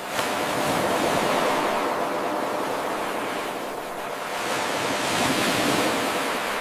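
Ocean waves washing on a shore, a steady rush that surges suddenly right at the start, eases off in the middle and swells again toward the end. The abrupt surge is the seam of an 8-second wave recording played on a loop.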